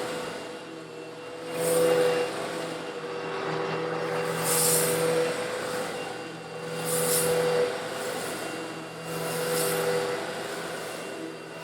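Eureka vacuum cleaner running steadily while sucking up coarse stone granules, the gravel rattling and hissing up through the nozzle in surges about every two to three seconds over the motor's steady hum.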